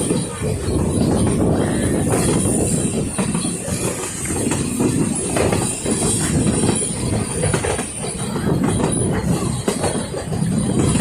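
Puffing Billy narrow-gauge steam train hauled by NA class locomotive 8A running along the line: a steady loud rumble with irregular clatter from the wheels and carriages, and a thin high-pitched squeal over it.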